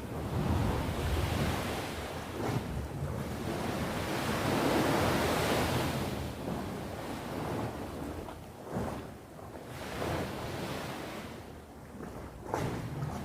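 Sea waves breaking and washing on the shore: a long surge through the first half, then smaller swells that fade and build again near the end.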